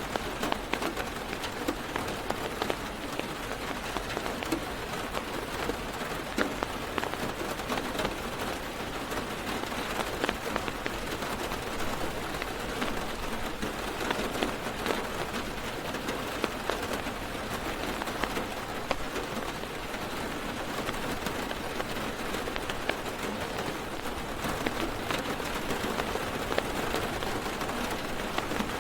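Heavy rain drumming on a car's roof and window, heard from inside the car, a steady patter with many individual drop hits.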